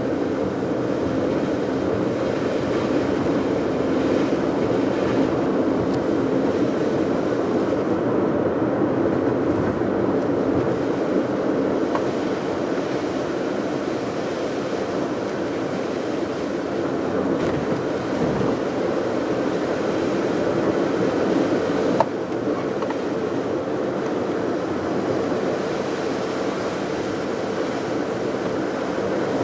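Steady road and engine noise of a car on the move, with one short sharp click about three quarters of the way through.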